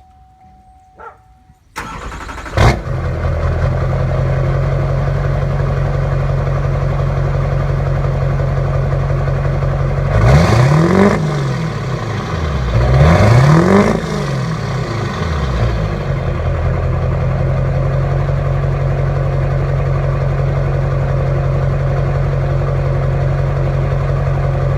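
2003 LB7 Duramax 6.6-litre V8 turbodiesel, breathing through a 5-inch straight pipe with no muffler, starts about two seconds in with a sharp burst and settles into a loud steady idle. It is revved twice, each rev climbing and falling back, about ten and thirteen seconds in, then idles again.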